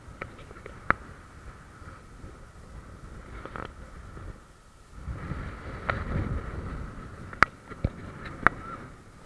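Wind rumbling on a phone's microphone outdoors, swelling about five seconds in, with a few sharp clicks.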